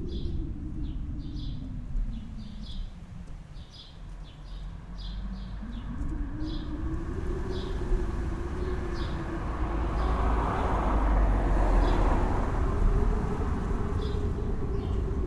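Wind blowing in gusts, dipping about four seconds in and swelling to its strongest about two-thirds of the way through. A bird chirps repeatedly in short high calls, more often in the first half.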